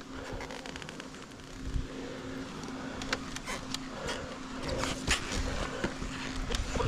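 A motorcycle engine running steadily at an even pitch, with scattered clicks and rustles over it.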